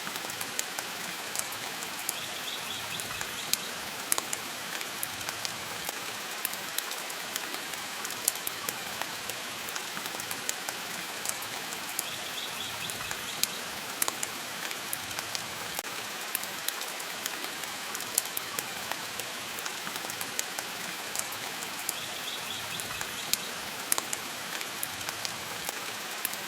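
Steady rain hissing, with frequent sharp crackles and pops from a wood fire burning in a fireplace.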